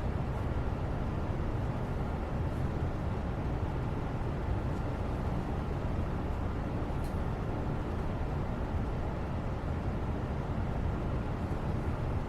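Steady low, rumbling background noise with no tone in it, with a few faint light clicks, once right at the start and again about 5 and 7 seconds in.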